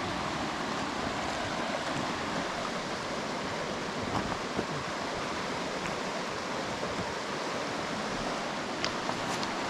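Steady rush of flowing river water, with a few faint small knocks around the middle and near the end.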